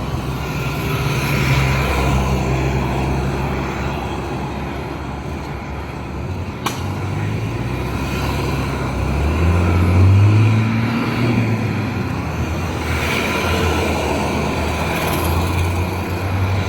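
Road traffic: vehicle engines running and passing close, loudest about ten seconds in, with a single sharp click about seven seconds in.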